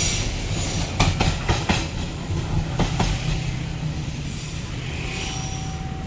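Wagons of a coal train rolling past, wheels clacking over rail joints in irregular groups for about three seconds, then settling into a steadier rumble with a faint thin squeal near the end.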